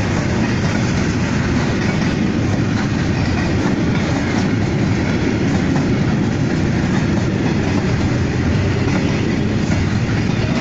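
Long container freight train passing close by: a loud, steady rumble of wagons and wheels running over the rails.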